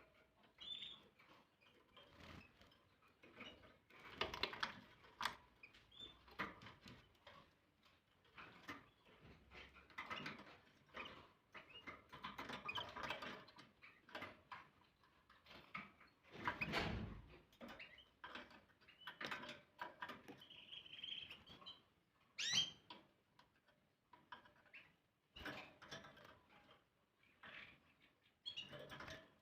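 Canary bathing in shallow water: faint, irregular splashes and wing flutters, with a few short high chirps, one rising sharply about two-thirds of the way in.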